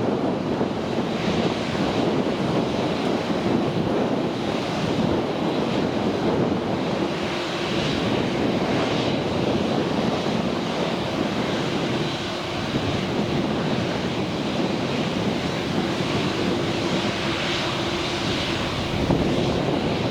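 Jet airliner engine noise, steady with a faint constant hum, mixed with wind buffeting the microphone.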